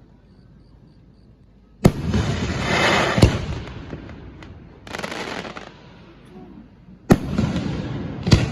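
Large aerial firework shells bursting at close range: the first two seconds are quieter, then a sharp bang comes about two seconds in and another a second or so later. Two more bangs follow near the end, and each is trailed by a hissing, crackling spray of sound.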